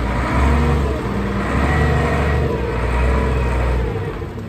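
LjungbyTruck LT8 forklift's engine running under load with the revs rising and falling, easing off near the end.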